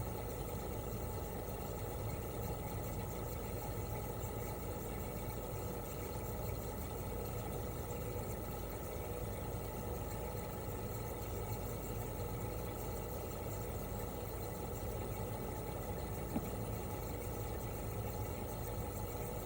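Toshiba RAS-285BAD mini-split outdoor unit running steadily in cooling mode: its twin-rotary inverter compressor hums with several steady tones under the even whir of the propeller fan. A single short tick sounds late on.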